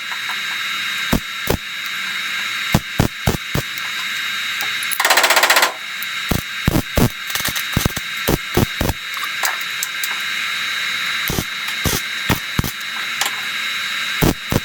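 Metal shop work on a car fender: scattered sharp clicks and knocks of tools on metal, with one short burst of rapid hammering strokes about five seconds in.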